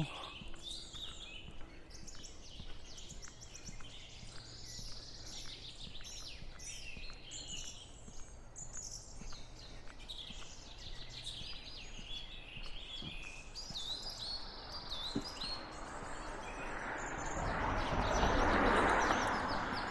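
Small songbirds chirping and trilling, with faint regular footsteps. Near the end a rushing noise swells and fades again.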